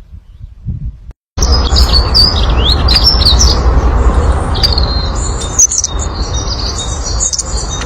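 Birds chirping, many short calls with quick rising and falling glides, over a loud steady noise; the sound cuts in about a second and a half in.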